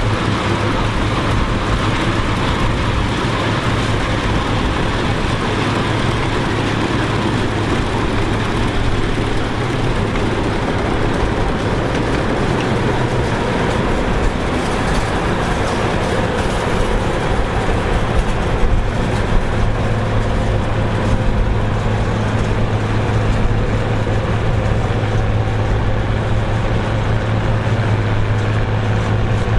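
Engine of vintage harvest machinery running steadily, with a constant low hum.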